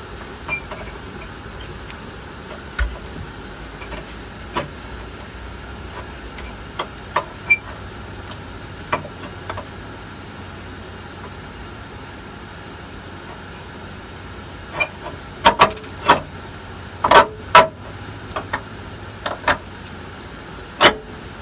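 Scattered clinks and knocks of hand work on a bus's front airbag suspension, with a run of louder sharp knocks from about fifteen seconds in, over a steady low background hum.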